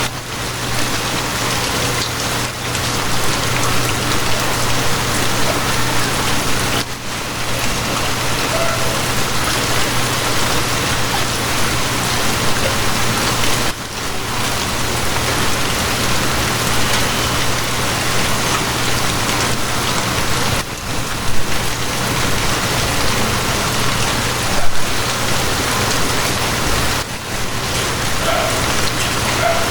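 Steady rain falling, an even hiss of drops, with a low steady hum underneath. A couple of brief louder spatters stand out near the end.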